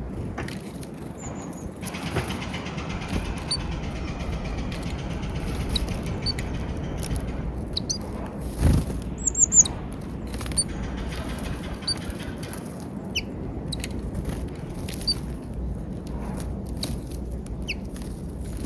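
Small wild birds giving short, high chirps scattered throughout, over a steady low background rumble. Just under halfway there is a brief loud sound, then a quick cluster of louder high calls.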